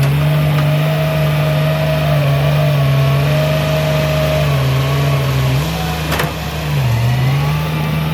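Heavy diesel engine of earthmoving machinery running steadily, its pitch dipping briefly a couple of times, with one sharp clank about six seconds in.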